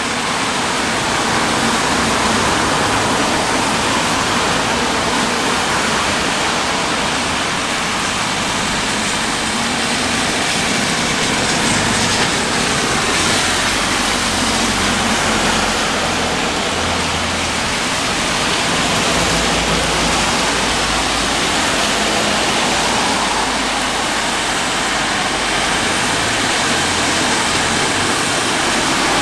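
Steady rain shower: a continuous, even hiss of falling water.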